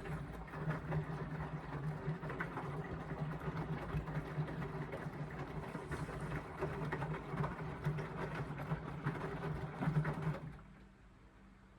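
Indesit washing machine on an express wash, its drum turning with a full load for about ten seconds: a steady motor hum under the tumble and slosh of wet laundry, stopping abruptly near the end as the drum pauses between turns in the wash phase.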